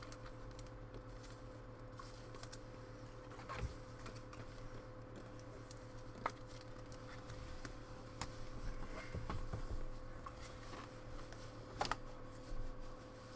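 Trading cards being handled, with light rustling and a few scattered soft clicks, over a steady low hum.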